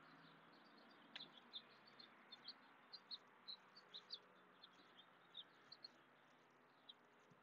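Small songbirds chirping faintly, a quick run of short, high chirps from about a second in, over a quiet background hiss.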